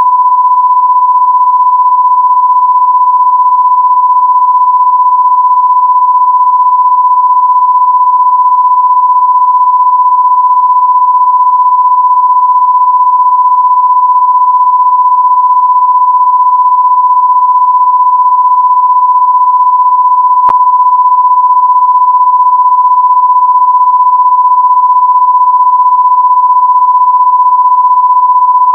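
Loud, steady electronic sine-wave test tone at about 1 kHz, one unwavering pitch, with a single faint click about two-thirds of the way through.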